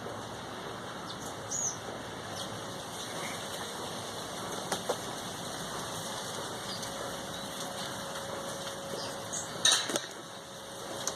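Wild birds calling: a few brief, high chirps over a steady background hiss, with one short louder burst about ten seconds in.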